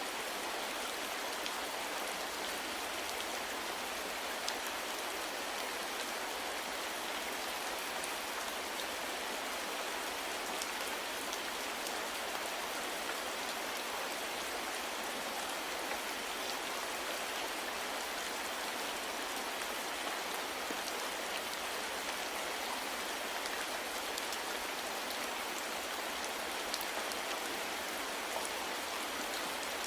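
Steady rain falling without a break, an even hiss of rain on a surface with faint individual drops ticking through it.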